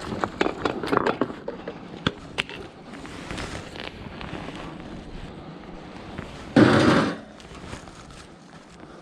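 Clattering knocks and clicks of hard objects being handled during the first couple of seconds, then one loud half-second crash about seven seconds in.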